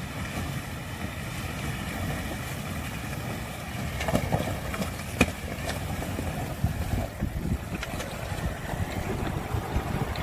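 Four-wheel-drive engine running under heavy load as it tows a camper trailer through a river crossing, a steady rumble with a few short sharp knocks partway through.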